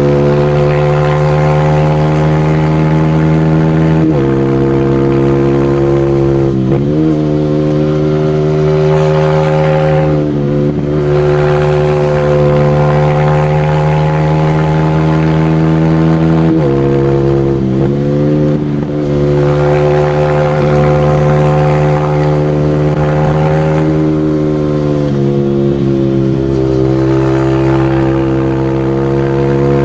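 Single-cylinder four-stroke motorcycle engine ridden hard at high revs, holding a steady high pitch with several brief sudden dips in pitch.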